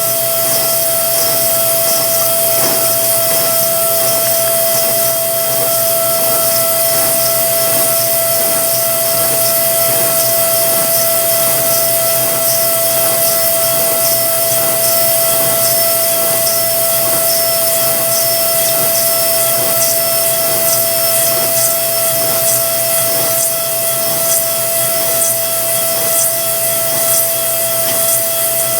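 Versamill 5X200 dental milling machine grinding an e.max lithium disilicate ceramic block: a steady high spindle whine over a continuous grinding hiss, with faint rapid scraping ticks.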